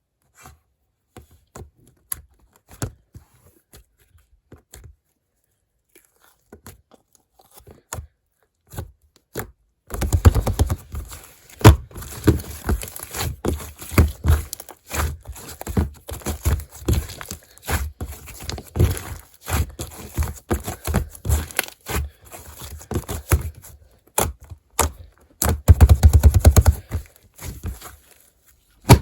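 Hands playing with a caterpillar-textured slime close to the microphone: only a few small clicks and pokes at first, then from about a third of the way in a steady run of crackling, squishing and tearing sounds with heavy low thumps, loudest near the end.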